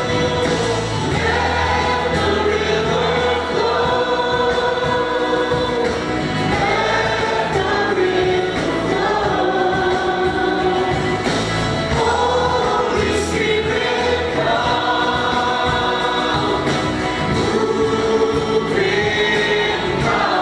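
A group of voices singing a gospel worship song with music, holding long sustained notes.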